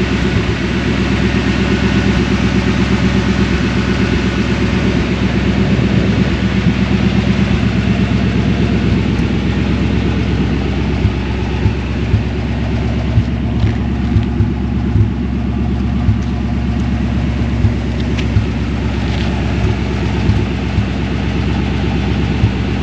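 V8 engine of a 1956 Chevrolet Bel Air running steadily, with short sharp peaks in the second half.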